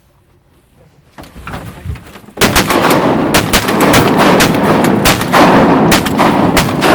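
Volley of shotgun blasts from several duck hunters firing together: a quiet second, a rising rush of noise, then from about two and a half seconds in a dense string of loud, overlapping shots.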